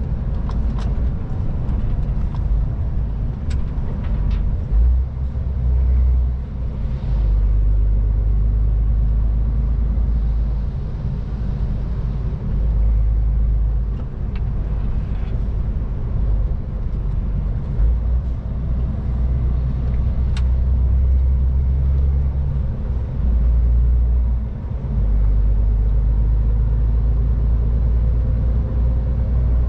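MAN TGX 18.510 semi-truck driving on the road: a steady low rumble of engine and road noise that swells and eases every few seconds, with a few light clicks.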